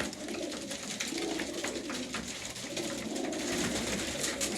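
Racing pigeons cooing steadily, with many quick clicks of beaks pecking at their feed.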